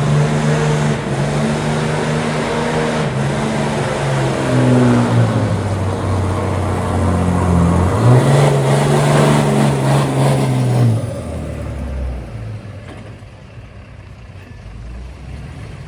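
Diesel Dodge Ram pickup's engine revving and holding high revs, dropping to a lower pitch about five seconds in, revving up again near eight seconds and holding, then falling back to a much quieter idle after about eleven seconds.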